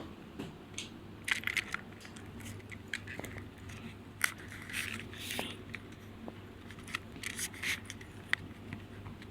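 Inside a moving local train: a steady low hum under irregular, scattered clicks and crackles.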